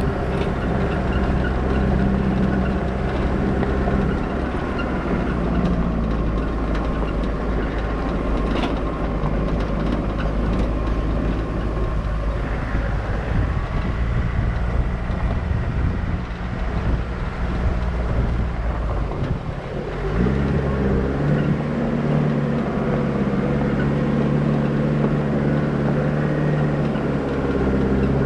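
Vehicle engine running steadily. Its note fades somewhat and then comes back abruptly at a new steady pitch about twenty seconds in, as with a gear change.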